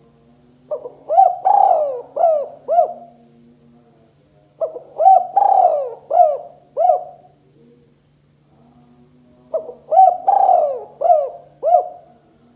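Spotted dove (tekukur) cooing: three phrases about four seconds apart, each a quick run of five or six rising-and-falling coos.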